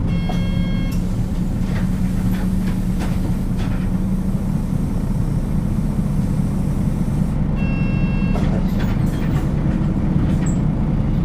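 Nissan Diesel KL-UA452KAN city bus heard from inside the cabin while driving: steady diesel engine drone with road noise. A short electronic tone sounds near the start and again about seven and a half seconds in.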